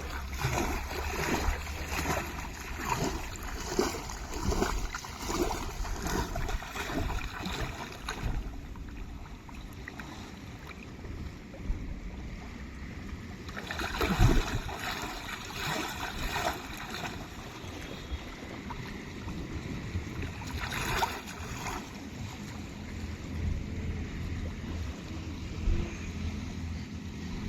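Water sloshing and splashing in irregular strokes, busiest in the first several seconds, with one louder splash about 14 s in, over a low wind rumble on the microphone.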